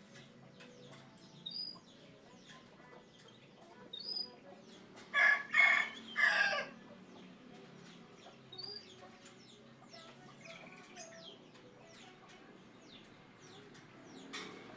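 A rooster crowing once, about five seconds in, in three drawn-out parts. Small birds chirp briefly now and then.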